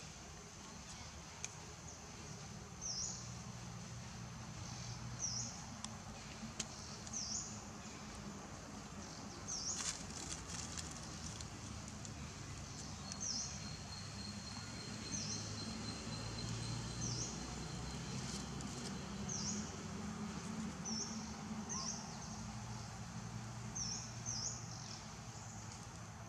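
Outdoor ambience with a bird repeating a short, high chirp about every two seconds, over a low steady background hum.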